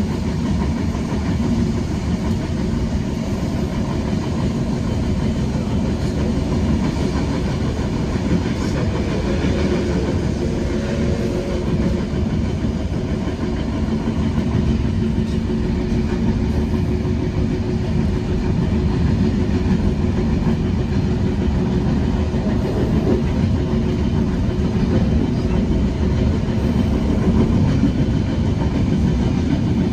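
Passenger train running at speed, heard from inside a carriage: a steady running noise of wheels on the rails under a low hum, growing slightly louder over the second half.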